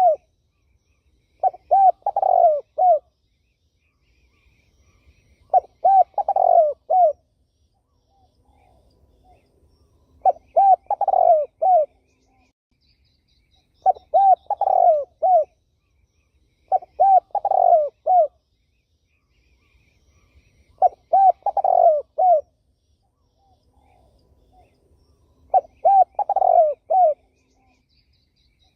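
Spotted dove cooing: a short phrase of three or four quick coos, repeated about seven times, one every three to four seconds. Faint chirps of small birds sound between the phrases.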